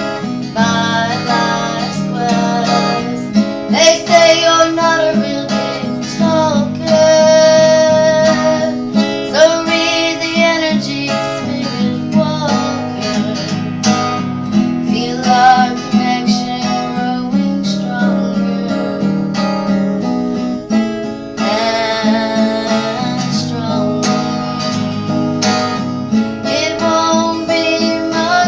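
A song played on strummed acoustic guitar in a steady rhythm, with a voice singing a melody over it.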